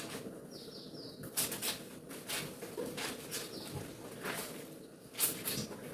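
Wet laundry handled by hand: a series of cloth swishes and rubs, a few strokes a second at irregular intervals.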